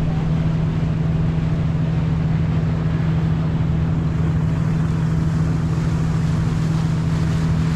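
Sightseeing boat's engine droning steadily under way: a constant low hum over an even rush of noise, with no change in pitch or level.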